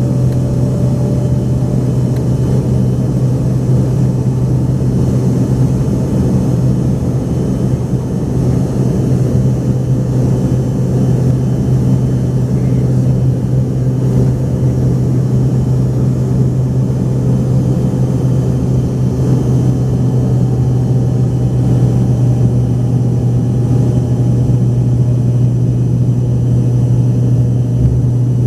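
Steady drone of an Embraer ERJ-145XR's rear-mounted Rolls-Royce AE 3007 turbofan engines, heard inside the passenger cabin with a strong low hum and an even rushing noise that holds level throughout.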